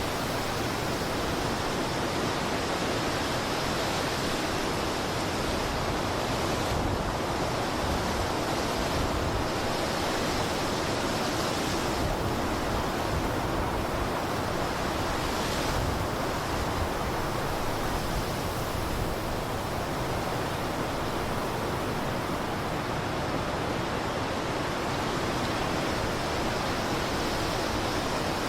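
Blizzard wind blowing in a steady, dense rush, with no gusts standing out.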